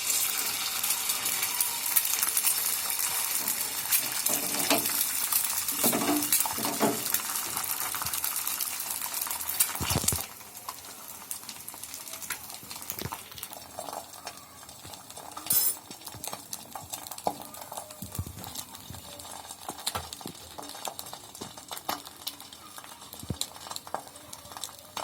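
Eggs frying in hot oil in a pan, a loud steady sizzle that drops suddenly to a quieter crackling sizzle about ten seconds in. There are scattered light clicks and clinks against the pan, and a brief louder burst in the middle.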